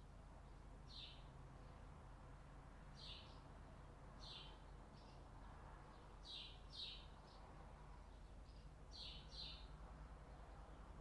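Faint short bird chirps, high and brief, a single note or a quick pair every second or two, over a quiet, still background.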